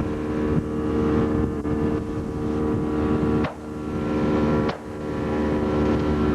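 Boat engine running steadily under way, with two brief sharp clicks about three and a half and nearly five seconds in.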